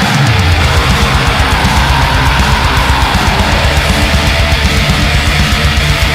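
Heavy metal recording: distorted electric guitars over a fast, steady drumbeat, loud and unbroken.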